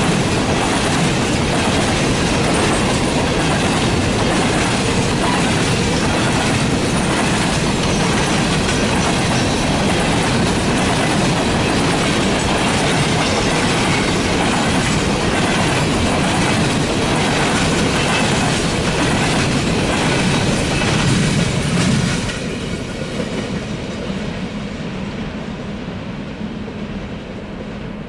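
Norfolk Southern freight train's cars rolling past close by, wheels clicking over the rail joints in a steady clatter. About 22 seconds in the noise drops off sharply, then keeps fading as the train moves away.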